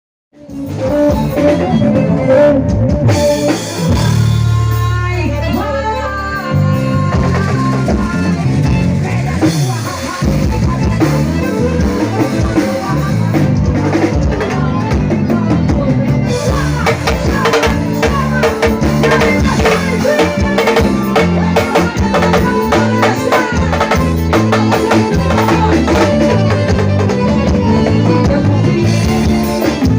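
Forró band music with a drum kit keeping the beat, cutting in suddenly just after the start.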